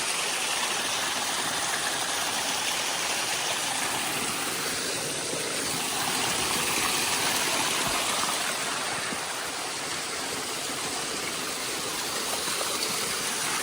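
Waterfall rushing steadily down a rocky mountain trail, a constant noise that swells slightly in the middle.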